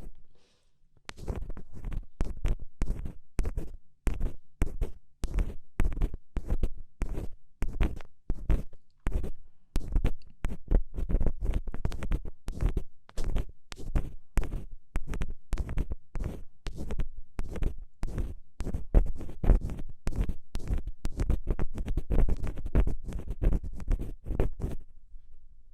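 Ear pick scratching and scraping in an ear right at the microphone, in quick irregular strokes with a low rumble under each one; they start about a second in and pause briefly near the end.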